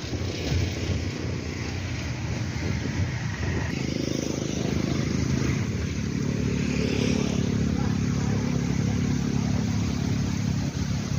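A motor engine droning steadily, coming in about four seconds in and holding until near the end, over wind noise on the microphone.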